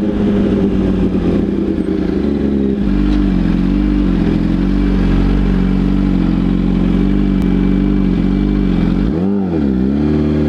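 Motorcycle engine running at a steady pitch, then revved up and dropping back quickly about nine seconds in.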